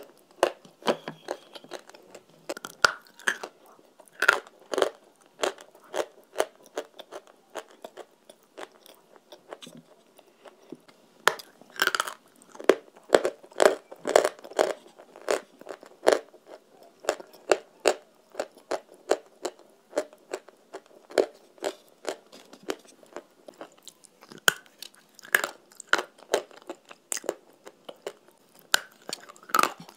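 A person biting and chewing hard, crunchy food right at the microphone: a run of sharp crunches, heaviest in bursts about halfway through and again near the end, with softer chewing between.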